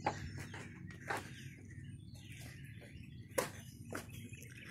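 Birds chirping faintly against quiet outdoor background noise, with a few soft knocks, the clearest about a second in and about three and a half seconds in.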